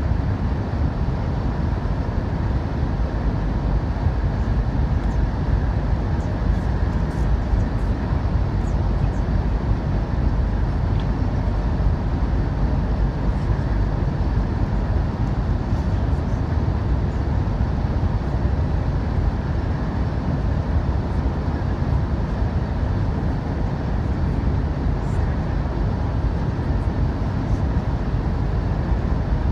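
CRH6A electric multiple unit train running along the line: a steady, even rumble of wheels on track, heaviest in the low end, with a faint steady whine and a few light ticks.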